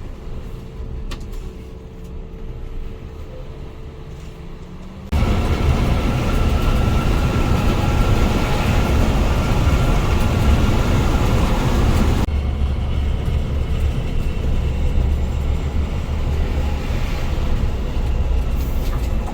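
Scania-engined coach on the move: engine and road noise, with a low engine tone slowly rising in the first few seconds, then suddenly much louder and rougher about five seconds in, changing abruptly again about twelve seconds in.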